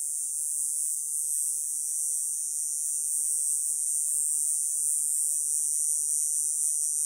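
Cicada singing: a steady, high-pitched buzz with no low tones.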